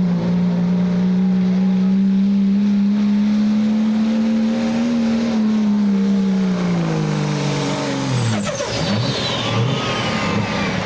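Work stock diesel pickup truck engine held at full throttle under load, running high and steady with a loud turbo whistle. About six seconds in the revs fall away, and the turbo whistle winds down in a long falling whine as the throttle is let off at the end of the pull.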